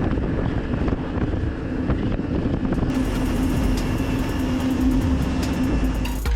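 Jet ski engine running at speed: a steady hum over dense, continuous rushing noise.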